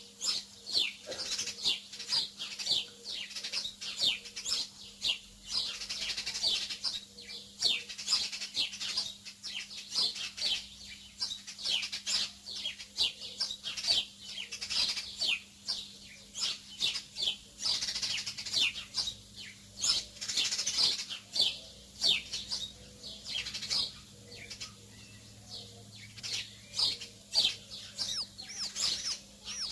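A flock of small birds chirping continuously, many short, quick downward-sliding chirps overlapping one another, over a faint steady low hum.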